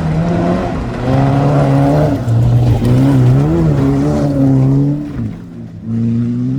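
Rallycross car engines revving on a muddy track, their pitch holding, then rising and falling with throttle and gear changes. The engine sound drops away briefly about five seconds in, then picks up again.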